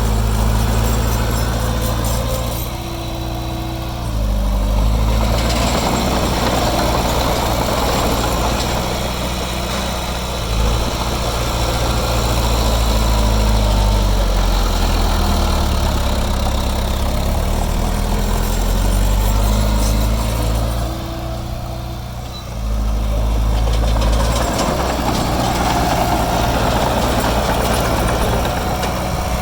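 Heavy construction machine's diesel engine running under load, its pitch shifting as it works. It eases off twice, about three seconds in and again around twenty-one seconds, then picks up again.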